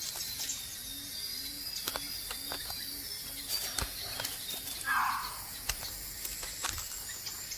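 Forest ambience: a steady high insect hiss, a run of soft, low, evenly repeated calls about two and a half a second for the first few seconds, scattered light clicks, and a short rustle about five seconds in.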